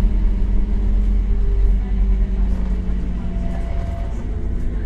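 Scania K270UB city bus's five-cylinder diesel engine running at a fairly steady pitch.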